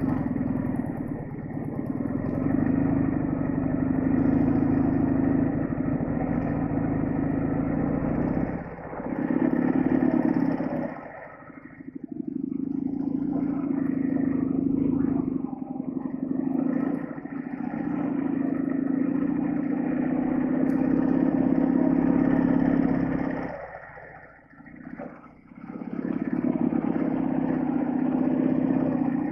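Flat-twin engine of a Soviet sidecar motorcycle running under load. The throttle is eased off and opened again a few times, with brief drops about nine and twelve seconds in and a longer one around twenty-four seconds.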